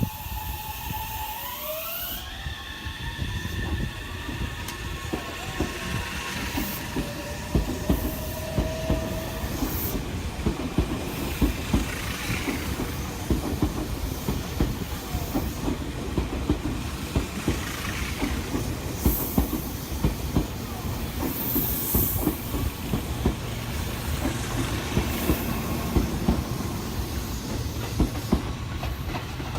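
Meitetsu electric train pulling away: its traction motors whine, the whine rising in pitch over the first couple of seconds as it accelerates. Then comes a running rumble with the clickety-clack of wheels over rail joints as it gathers speed.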